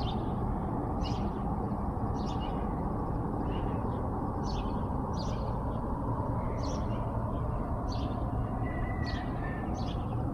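Birds chirping outdoors: short separate calls, roughly one a second, over steady low background noise.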